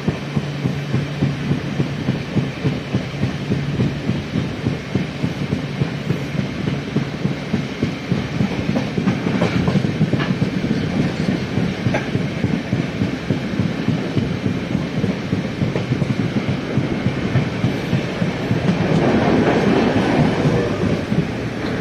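Passenger train running at speed, heard from inside the coach: a steady rumble of the wheels with a quick, regular clickety-clack over the rail joints. The rush grows louder about three-quarters of the way through.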